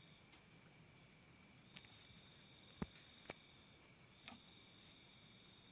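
Steady chorus of night insects such as crickets, several high trilling pitches held at a constant level. A few short, faint clicks come through about halfway, the last one a little louder.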